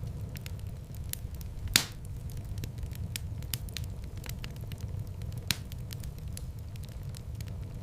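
Fireplace fire burning with a steady low rumble and frequent sharp crackles and pops. The loudest pop comes about two seconds in, and a second strong one a little past halfway.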